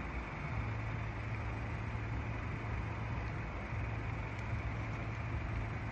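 Road vehicles idling, a steady low engine hum over a haze of outdoor traffic noise.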